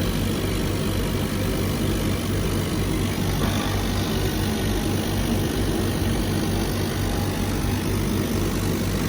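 CNC laser cutter running, a steady machine drone with a low hum.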